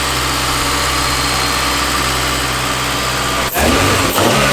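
Honda B-series Type R four-cylinder engine idling steadily on its first start after a year sitting. About three and a half seconds in, a sharp click, and the engine note turns rougher and shifts in pitch.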